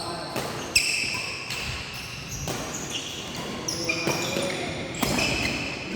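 Badminton play on an indoor court: a sharp racket strike about a second in, amid repeated high-pitched squeaks of shoes on the court floor.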